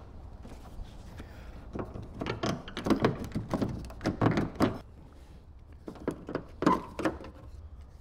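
Knocks and clicks of hands and tools working on a Daewoo Nubira's car door and its outside handle: a quick run of them, a short pause, then a few more.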